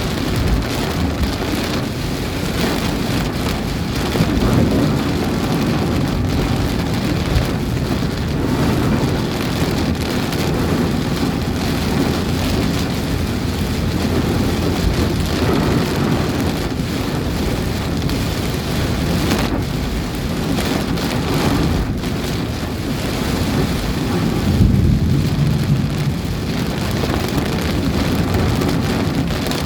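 Heavy rain pouring steadily in strong wind, with a deep rumble underneath.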